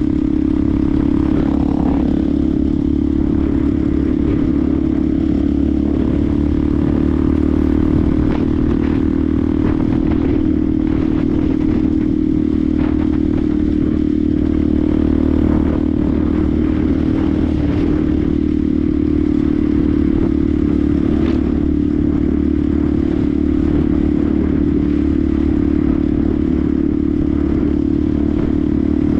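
Benelli TNT 125's single-cylinder 125cc engine running steadily at an almost constant pitch, with rough mechanical clatter mixed in.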